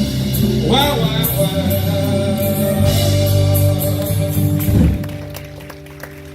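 Live worship band playing with a singing voice over sustained chords; the music fades down about five seconds in, leaving a quieter tail with a few isolated plucked notes.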